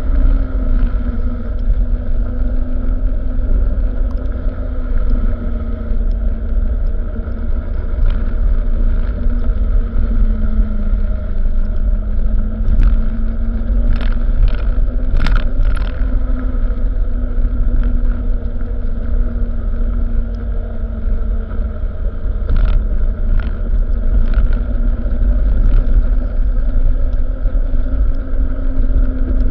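Truck engine running steadily with a heavy low rumble, its pitch drifting slightly up and down, with a few short clicks or knocks.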